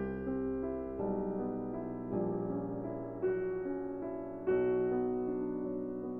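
Background piano music, slow and gentle, with a low bass note under chords that change about once a second.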